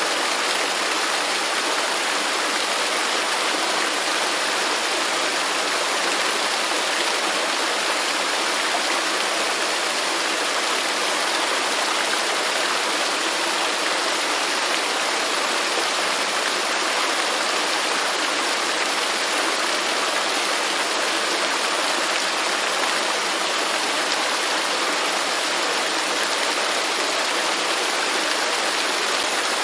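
Waterfall falling steadily, an even rushing of water with no breaks or changes.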